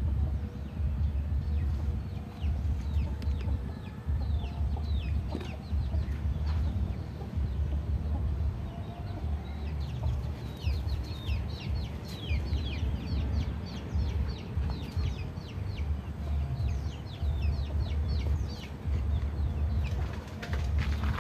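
Birds chirping in quick, short calls that slide downward, thickest in the middle of the stretch, over a low rumble that swells and fades every second or so.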